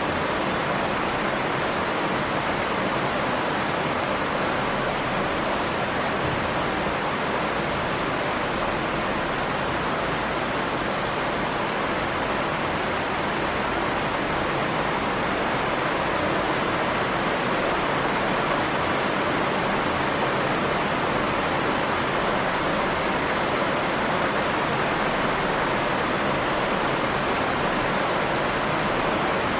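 Steady rain, one unbroken, even hiss with no single drops, drips or thunder standing out.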